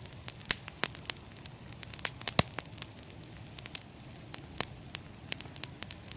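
Wood fire in a fireplace crackling, with irregular sharp pops and snaps over a steady low hiss of the flames.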